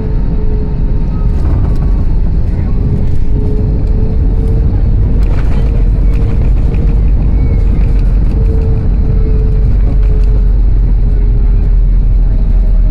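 Airbus A321neo on its landing roll, heard inside the cabin: a loud, deep rumble from the engines and the wheels on the runway, with a steady, slightly wavering whine running through it. The rumble grows a little over the first few seconds and then holds steady.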